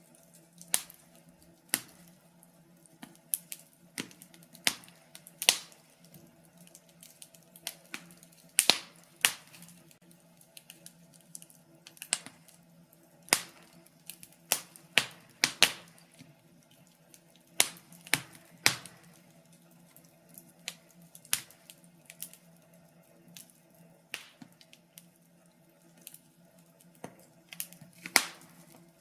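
Wood fire crackling: irregular sharp pops and snaps, some loud, scattered every second or so, over a faint steady low hum.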